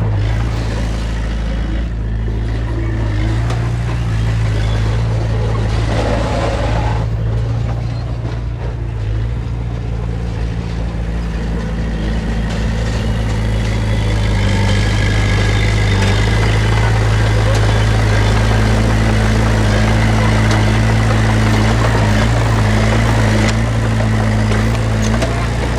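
Diesel engine of heavy earthmoving machinery running steadily under load, a little louder from about halfway through.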